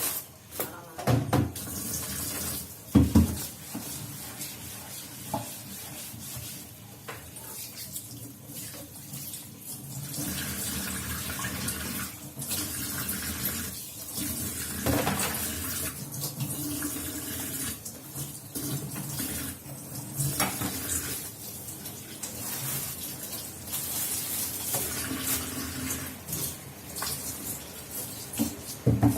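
Tap water running into a kitchen sink, with pots or utensils knocking and clattering, the loudest knocks about a second and three seconds in.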